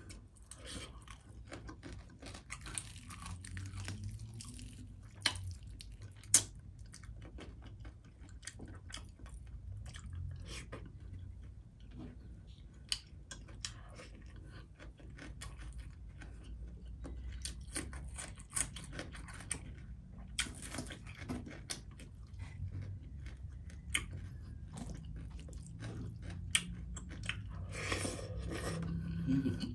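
Close-miked chewing of fried tilapia and eggplant salad eaten by hand, with moist mouth sounds and scattered short sharp clicks, the loudest about six seconds in.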